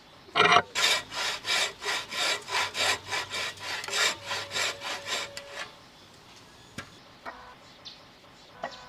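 Hand saw cutting through wood in quick back-and-forth strokes, about three a second, for some five seconds before stopping; a few light clicks follow.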